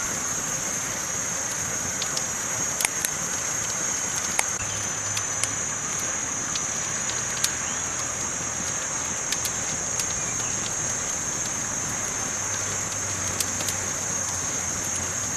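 Campfire burning: a steady hiss with scattered sharp crackles and pops, about fifteen of them, over a constant high-pitched whine.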